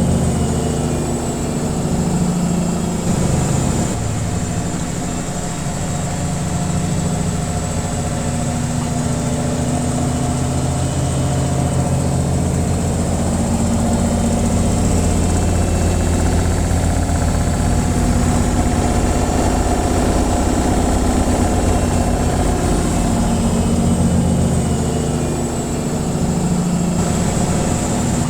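Washing machine on its spin cycle: a steady hum of the motor and spinning drum, with a faint high whine above it. The low tones shift slightly now and then.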